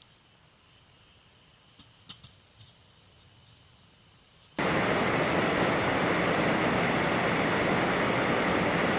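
Shmel-1 primus stove burning at full, a loud steady hiss, cutting in suddenly about halfway through after a few quiet seconds with a couple of faint clicks.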